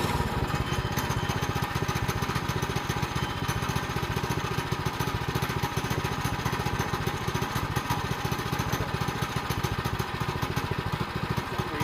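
A band sawmill's small gas engine running steadily at an even pace, with no log being cut.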